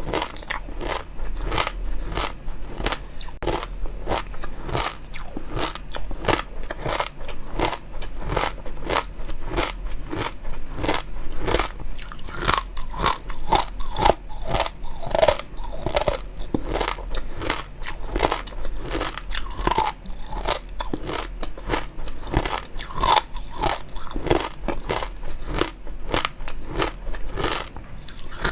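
A person chewing food close to the microphone, a continuous run of crunchy, clicking bites and mouth sounds several times a second.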